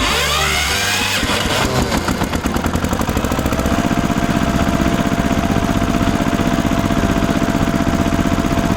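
Small engine of a DIY miniature tractor starting up, its pitch rising over the first second or so, then running steadily with a rapid throbbing.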